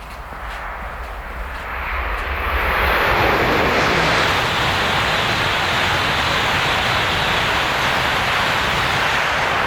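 A Tohoku Shinkansen train passing through a station at high speed without stopping: a rushing roar that builds over the first three seconds, then holds loud and steady.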